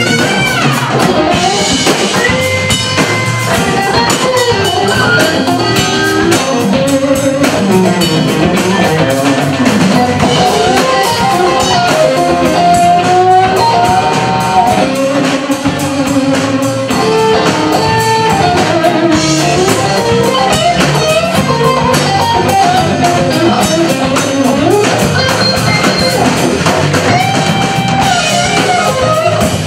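Live blues band playing an instrumental break: an electric guitar solo with bending lines over bass and drum kit.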